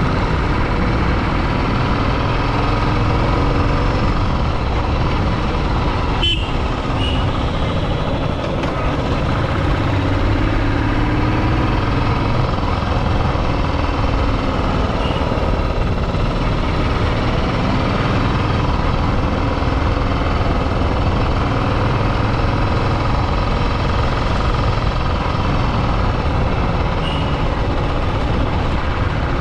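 Motorcycle running at steady road speed with constant wind and road noise, and one sharp click about six seconds in.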